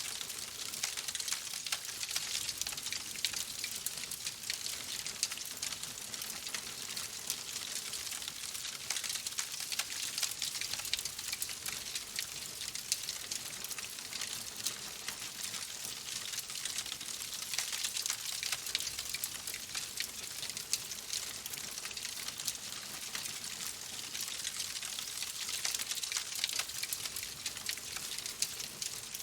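Wood fire in a fireplace crackling steadily: a dense run of small pops and hiss with no pauses.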